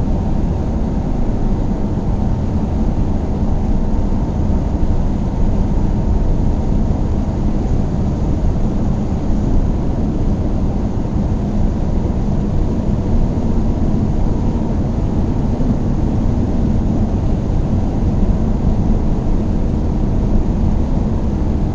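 Car driving along with a steady low rumble of engine and tyre noise.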